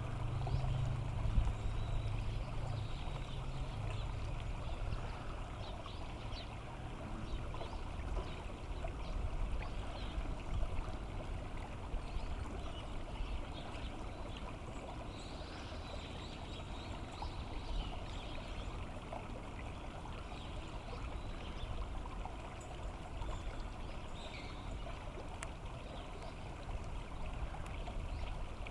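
Water of a stream running steadily, with faint short high chirps now and then and a low hum during the first few seconds.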